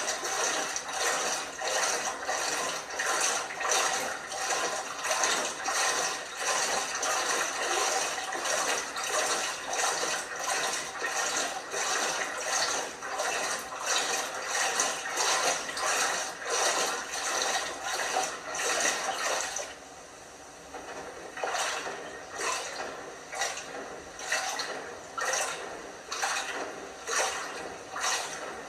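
LG washing machine tumbling a load in water, sloshing and splashing in a steady rhythm of about two strokes a second. A continuous rush of water underneath stops about twenty seconds in, leaving the sloshing alone.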